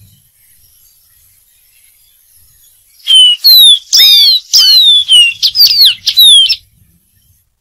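Dark-throated seedeater singing: about three seconds in, a quick phrase of some eight clear, downslurred whistled notes lasting about three and a half seconds.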